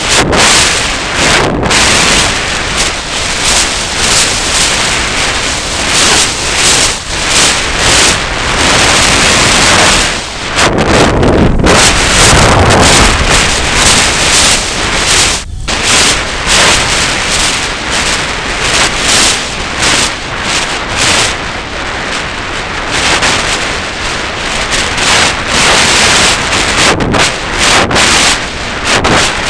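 Strong, gusty wind buffeting the microphone: a loud, dense rushing rumble that swells and drops with the gusts, with a couple of brief lulls.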